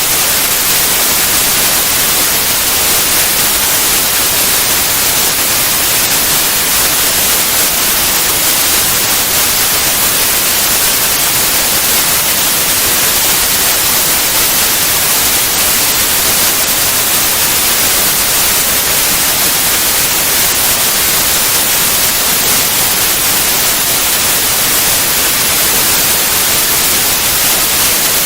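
Continuous white noise: an even, unbroken hiss spread across all frequencies, brightest in the highs, with no changes in level.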